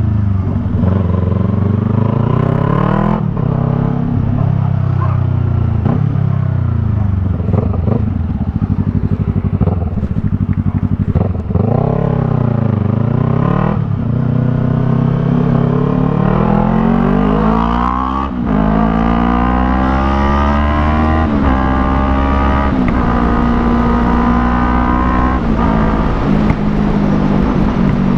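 Yamaha MT-03's parallel-twin engine through an aftermarket Jeskap R3 Cup exhaust, with the bike under way. The revs climb and fall again and again, with a sudden drop in pitch at each gear change. Past the middle there is one long pull that ends in a shift, and the engine runs steadier near the end.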